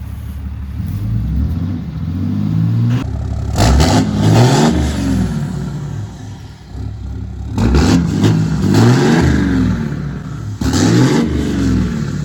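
Tuned Ram 3500 Cummins diesel with a big aftermarket exhaust, revved up several times in bursts, the pitch rising and falling about 3.5, 8 and 11 seconds in: a lot of racket.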